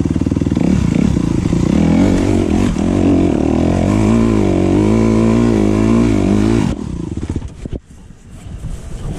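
Dirt bike engine running loud and close, its revs rising and falling. About seven seconds in the engine sound drops away abruptly.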